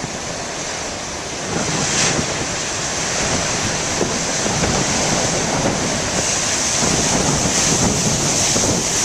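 Large storm waves breaking and crashing against a rocky shore, the sound of the surf swelling about a second and a half in and staying loud, with wind buffeting the microphone.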